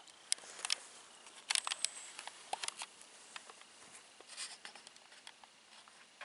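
Scattered sharp clicks and short rustles close to the microphone, the loudest cluster about a second and a half in.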